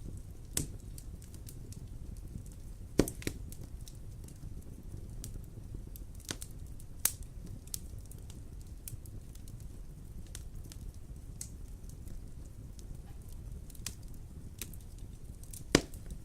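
Wood fire burning in a fireplace: a steady low rumble with scattered sharp crackles and pops, the loudest about three seconds in and near the end.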